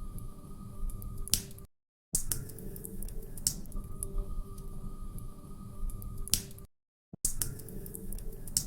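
Wood fire crackling in a fireplace: irregular sharp pops over a low steady rumble. The sound drops out to silence twice, briefly, about two seconds in and about seven seconds in.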